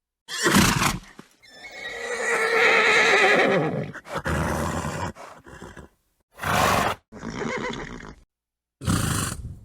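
Horse calls in short, separately cut clips with dead silence between them: a brief noisy snort, then a long whinny of about two and a half seconds that falls in pitch, followed by three more short snorts and nickers.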